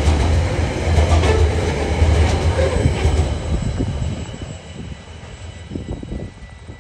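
Coal hopper wagons of a freight train rolling past on the rails: a heavy low rumble of wheels, with clicks as wheels pass over rail joints. It fades from about four seconds in as the last wagons move away.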